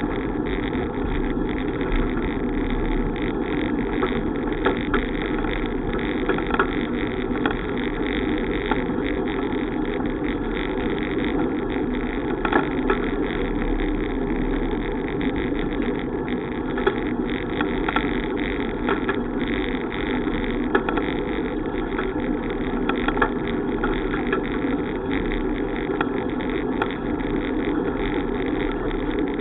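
Steady rushing noise of a bicycle ride, wind and tyre noise on the microphone, with small clicks and knocks every so often.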